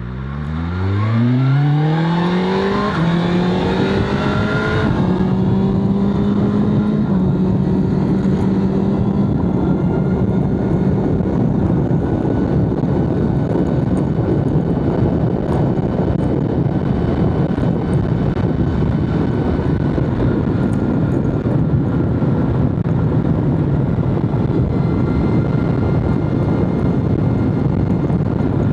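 BMW S1000RR's inline-four engine accelerating hard, its pitch climbing steeply for about two seconds, then holding a steady high engine speed while the bike cruises. A steady rush of wind noise runs underneath.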